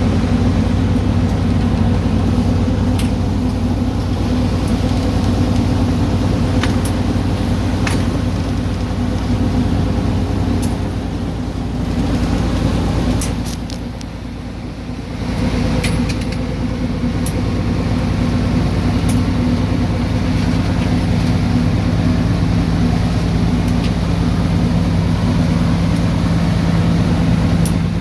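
A ship's engine running with a steady low drone. It dips briefly about halfway through, with a few faint clicks over it.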